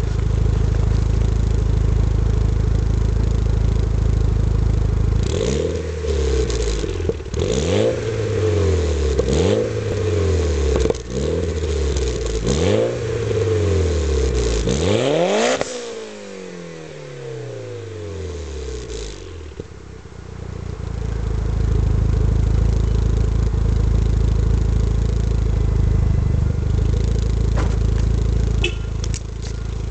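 Mitsubishi Lancer Evolution IX MR's turbocharged inline-four through an HKS Carbon Ti catback with an AMS test pipe and downpipe. It idles, then is revved about six times in quick succession, the last rev the highest. The revs fall away and the note is quieter for a few seconds before settling back to idle.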